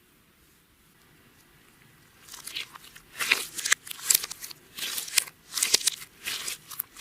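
Clear slime being worked by hand with makeup and glitter mixed in, giving an irregular string of crisp crackles and crunches that starts about two seconds in.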